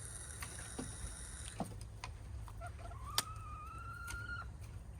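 A hen gives one drawn-out call of steady pitch, about a second and a half long, starting about three seconds in, with a sharp click just after it begins. A thin high whine sounds faintly through the first second and a half.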